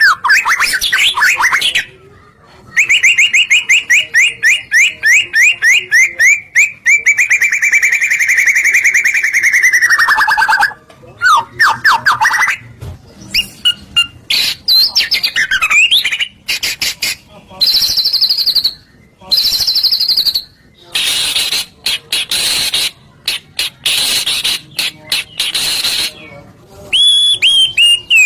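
White-rumped shama (murai batu) singing a loud, varied song: a long rapid trill of repeated notes that drops in pitch at its end about ten seconds in, then shorter whistled phrases, repeated high notes and harsher chattering notes broken by brief pauses.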